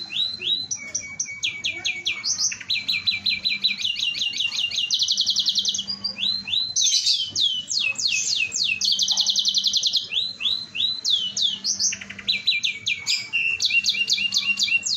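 Domestic canary singing continuously: fast trills of repeated notes alternating with quick down-slurred whistles and rolling phrases, high-pitched and loud.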